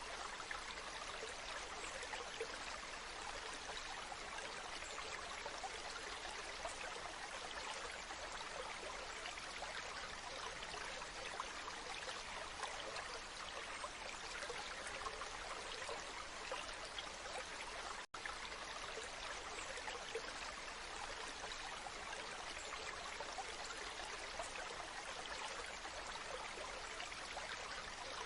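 Waterfall, water rushing and splashing in a steady, even stream. A split-second dropout breaks it about eighteen seconds in.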